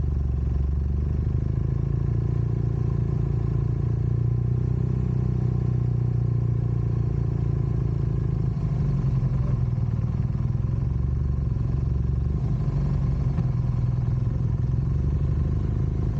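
Motor vehicle engine running steadily while under way, a constant low drone whose note shifts slightly about nine seconds in.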